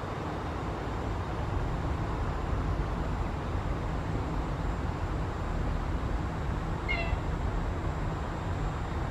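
An EP20 electric locomotive hauling a double-deck passenger train approaches with a steady low rumble that grows a little louder. About seven seconds in, a brief high-pitched call sounds once over it.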